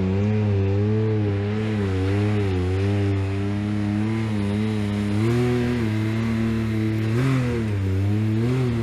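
A side-by-side UTV engine running at a steady low idle, its pitch wavering slightly, with small throttle lifts about midway and again near the end.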